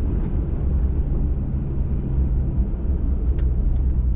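Ford F-150 Raptor pickup driving on a trail: a steady low rumble of engine and tires, with a faint steady hum and a few faint ticks near the end.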